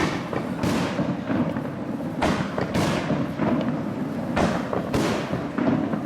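Fireworks bursting: six sharp bangs arriving in three pairs about half a second apart, over a continuous low rumble.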